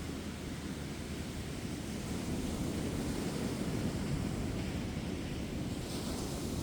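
Ocean surf washing onto a beach: a steady rush of breaking waves, with gentle wind on the phone's microphone. It swells a little about two seconds in, and a brighter hiss of wash comes in near the end.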